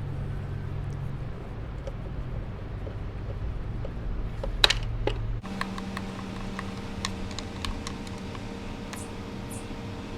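Light clicks and taps of hand tools and metal parts being handled as a part is removed from a motorcycle's throttle body, with one sharper click about four and a half seconds in, over a steady low hum that changes abruptly about five and a half seconds in.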